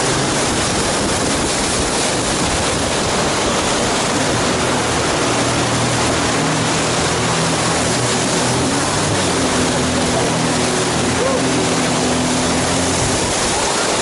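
Loud, steady roar of whitewater rapids rushing around the raft. A steady low drone from the raft's outboard motor joins about four seconds in and fades near the end.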